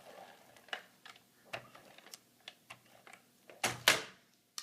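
Paper being handled and pressed into place: a run of small taps and crinkles, with a louder rustle of paper about three and a half seconds in.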